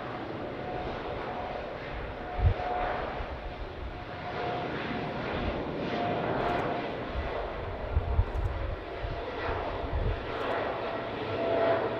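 Jet airliner engines running, a steady rushing roar with a faint whine that swells and fades slightly. A few low thuds come through about two and a half seconds in and again around eight seconds.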